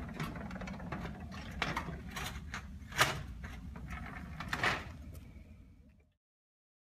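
Mechanical handling noise: scattered clicks and a couple of sharp knocks over a low rumble. It cuts off suddenly into silence about six seconds in.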